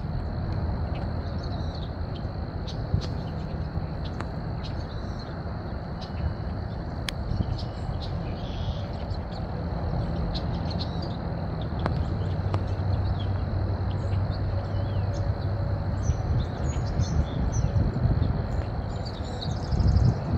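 Outdoor ambience: small birds chirping here and there over a steady low rumble.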